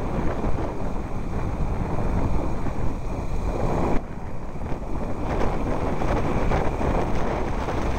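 Wind buffeting the microphone, an uneven low rumble, with a vehicle running underneath.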